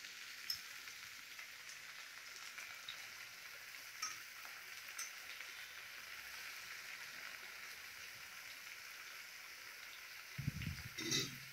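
Faint, steady sizzle of mustard oil frying in a kadai under a heap of freshly added bottle gourd leaves, with a few small pops. A short, louder low sound near the end.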